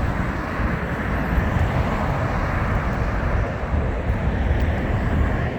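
Jet airliner engine noise: a steady, loud rumble that drops away near the end.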